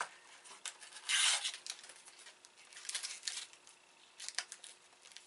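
Snack packaging being torn open and crinkled: one loud tear about a second in, then rustling and a few sharp crackles.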